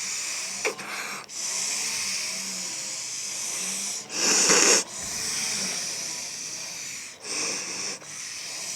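Blow-pen markers blown through by mouth, a steady airy hiss of ink spraying out, in long blows of one to three seconds separated by short pauses for breath; the loudest, shortest blow comes about four seconds in.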